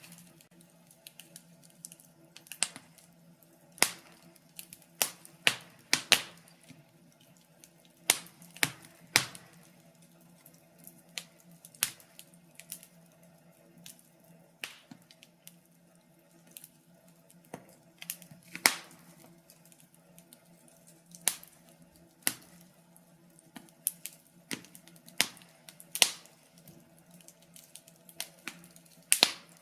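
Fire crackling in a fireplace: irregular sharp pops and snaps of varying loudness, over a faint steady hum.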